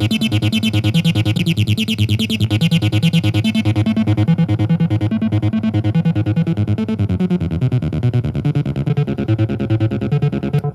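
Donner B1 bass synthesizer playing a sequenced electronic bass line of fast, evenly repeated short notes that step between pitches. About four seconds in, its bright upper tone fades away and leaves the low notes.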